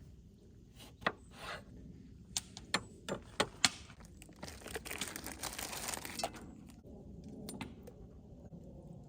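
Plastic food packaging being handled and opened: several sharp clicks and knocks, then about two seconds of tearing and crinkling plastic, as a raw chicken is unwrapped for the pot.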